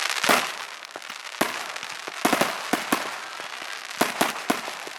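Fireworks display going off: a rapid, irregular run of sharp bangs over continuous crackling, with several reports close together in places.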